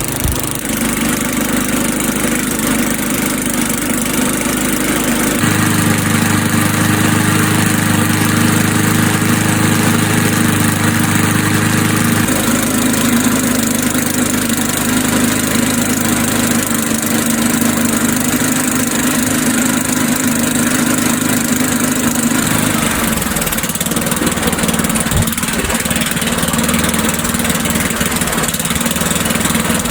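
Single-cylinder Tecumseh engine of an old Sears Craftsman Eager 1 lawn mower running steadily with a loud exhaust, letting it smoke off after repair. Its engine note changes a few times, at about 5, 12 and 23 seconds in.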